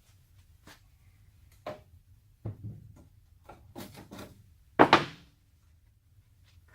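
Sheet-steel truck door panels being handled and swapped: a few scattered knocks and scrapes of metal, the loudest a short clatter about five seconds in.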